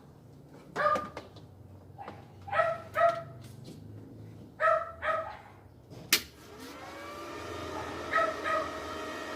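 A dog barks several times, mostly in quick pairs. About six seconds in, a switch clicks and a welding machine's cooling fan spins up, rising in pitch and settling into a steady whine.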